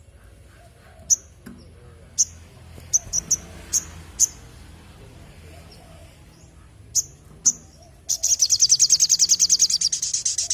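Little spiderhunter (sogok ontong) singing: sharp, high single chirps at uneven intervals, then, about eight seconds in, a loud rapid trill of evenly repeated high notes.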